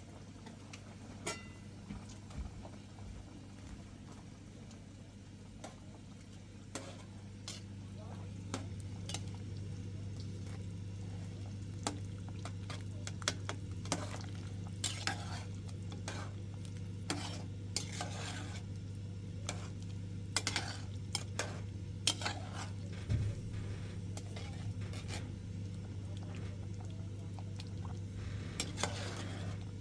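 Kitchen utensils clinking and scraping against pots and dishes, with many short sharp knocks, over a steady low hum that grows louder about eight seconds in.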